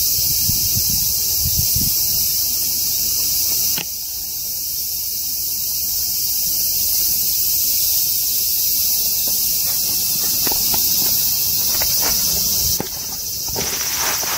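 Steady, loud chorus of insects shrilling, with a few light clicks near the end.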